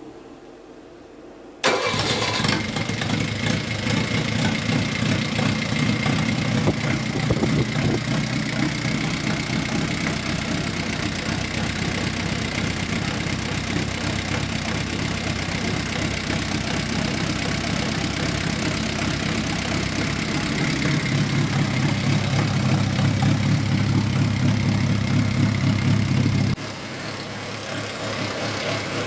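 Isuzu C221 four-cylinder diesel engine starting almost at once, about two seconds in, then running steadily. From about 21 s its note gets deeper and a little louder, and near the end the level drops abruptly.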